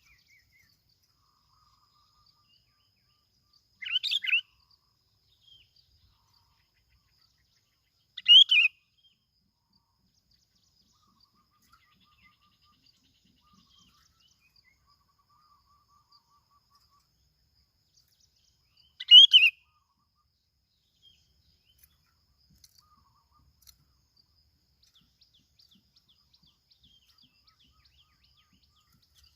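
Bông lau bulbul giving three short calls: one about four seconds in, another four seconds later, and a third some eleven seconds after that, with near silence between them.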